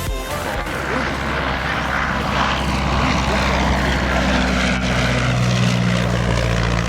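Piston-engined propeller aircraft flying past, its engine droning steadily and growing louder and clearer in pitch over the last couple of seconds.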